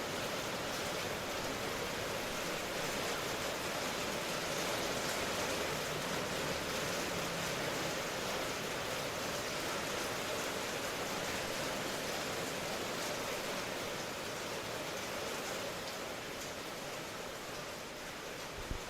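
Steady rain, an even hiss of falling drops with no break, and one brief low thump near the end.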